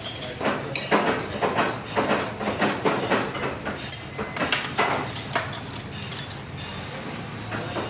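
Metal knocks and clinks of truck gearbox parts being tapped and fitted into the casing. It is an irregular run of a dozen or so sharp strikes with a ringing metallic edge, easing off near the end.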